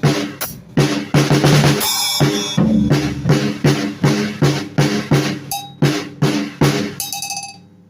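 Drum kit played freely, bass and snare drum hits and rimshots at about three to four strokes a second, the strikes spacing out and fading near the end.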